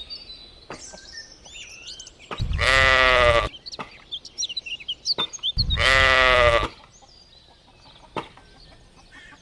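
Sheep bleating twice, each call about a second long and a few seconds apart, with small birds chirping faintly between the calls.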